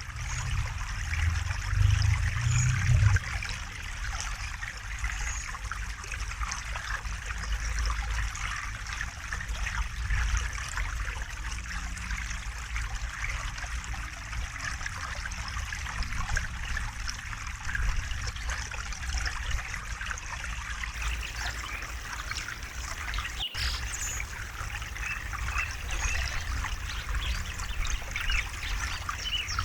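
River water flowing and trickling steadily over stones, with a low rumble underneath and faint bird chirps now and then.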